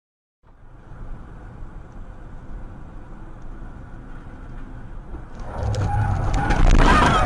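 Car driving, heard on dashcam audio: a steady low rumble of engine and road noise that grows louder about five seconds in. Several sharp knocks and a loud short hit come near the end.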